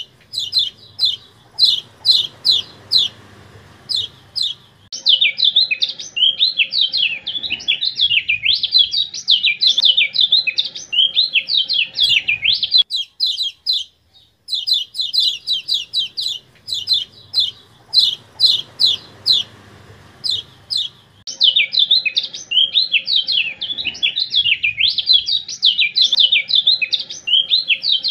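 Kecial kuning song, looped: a fast run of sharp, high, falling chips, then a dense, rapid warbling chatter. The sequence repeats about halfway through.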